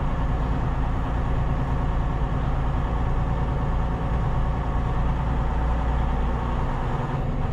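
Semi truck's diesel engine running steadily at a low, even drone.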